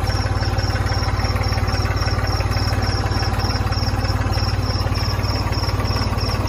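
An engine running steadily at idle, with an even rapid pulse, over crickets chirping.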